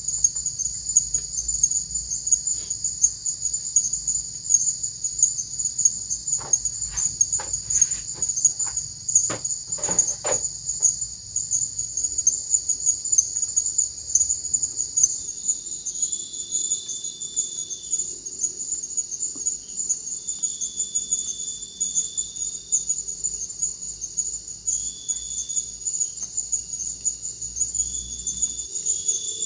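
Forest insects shrilling in a dense, steady, high chorus. From about halfway, a second insect joins with short, repeated calls at a lower pitch, and a few soft clicks come about a third of the way in.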